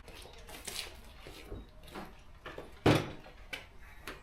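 Garage door hardware and hand tools being handled during a door tear-out: scattered small clicks and knocks, with one loud sharp knock about three seconds in.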